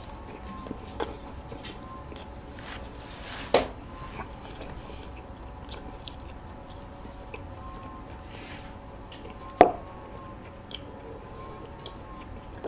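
Close-miked chewing of a soft walnut cake (hodu-gwaja), a moist cake-like bread with sweet red bean and walnut inside: quiet, wet chewing with scattered small mouth clicks. Two sharper smacks stand out, one about three and a half seconds in and one near ten seconds.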